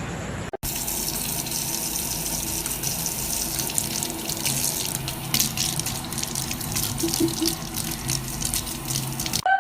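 Steady running water, like a tap running into a sink. It starts suddenly just over half a second in and cuts off near the end.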